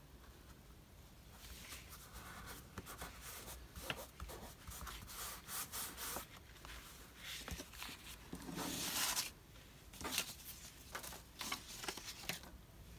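Paper being handled and rubbed on a desk: intermittent rustling and scraping of paper scraps, with a longer, louder rub about nine seconds in.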